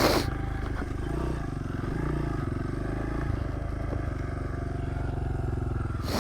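Honda CRF100 pit bike's small single-cylinder four-stroke engine running at low, fairly steady revs, with small rises and dips in pitch.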